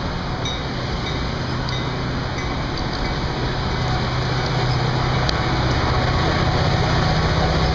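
Metra commuter train's bilevel gallery coaches passing close by: a steady rumble of wheels on rail that grows louder toward the end.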